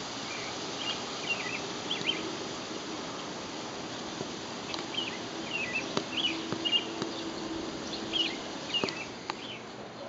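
A small bird chirping in several clusters of short, high notes over a steady background hiss.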